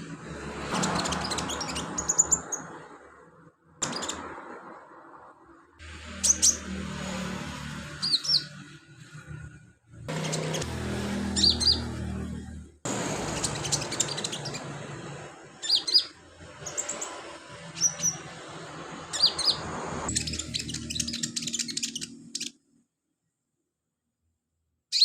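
A sunbird in full song, giving quick, high, thin chirps and short trills in bursts over background noise. The song stops a few seconds before the end, and one last chirp follows.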